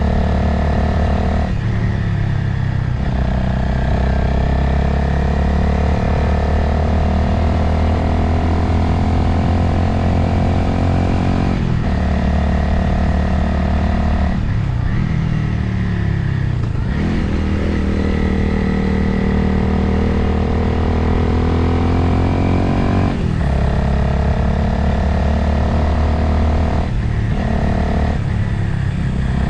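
Motorcycle engine under way, its note climbing as it accelerates and then dropping briefly at gear changes several times, with a longer falling note near the middle as the throttle closes. Wind noise on the microphone runs under the engine throughout.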